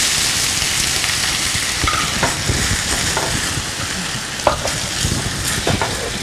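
Thawed, roughly crushed corn sizzling in hot oil with tempered spices in a nonstick kadai, the steady hiss easing a little. From about two seconds in, a slotted spatula scrapes and knocks against the pan in irregular stirring strokes.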